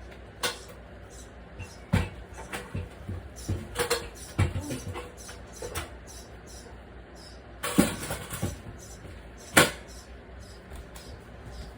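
Irregular knocks, taps and clattering from work on a wall being opened up, with a burst of clatter about eight seconds in and a single sharp bang a moment later.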